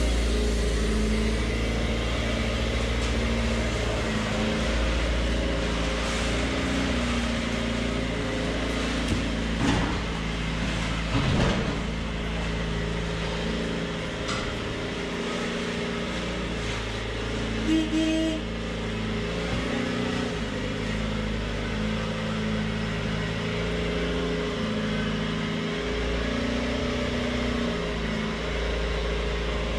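Box truck's engine running at low speed while the truck is manoeuvred, with a couple of brief knocks about 11 and 18 seconds in.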